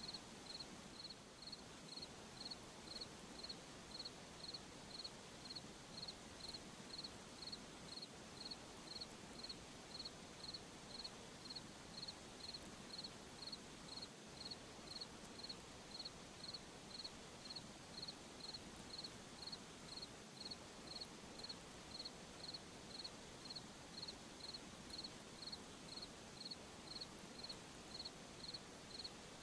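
A cricket chirping steadily at night, short high chirps evenly repeated about one and a half times a second, over a faint hiss of night ambience.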